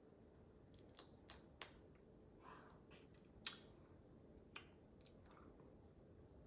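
Faint eating sounds from shell-on tiger prawns: a scattering of sharp little clicks and soft crackles from shell being cracked, peeled and chewed.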